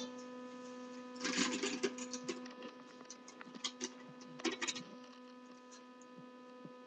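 A steady electrical hum, with a stretch of rustling about a second in and scattered short clicks and rustles after it.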